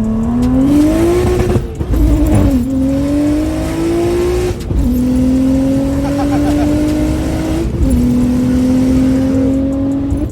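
BMW N54 3.0-litre straight-six, converted to a single turbo and making about 700 hp, pulling hard at full throttle. The pitch climbs steadily in each gear and drops sharply at three upshifts, about 2, 4.5 and 7.7 seconds in, with a brief dip in loudness at each shift.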